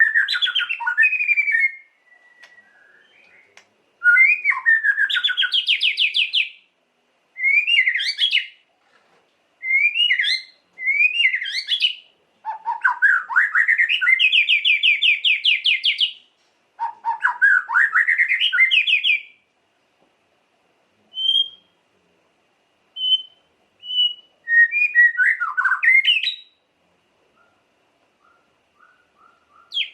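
White-rumped shama (murai batu) singing shrill phrases. Some are rapid trills of repeated notes, others glide up and down in pitch, each lasting one to a few seconds, separated by short pauses and a few single short notes.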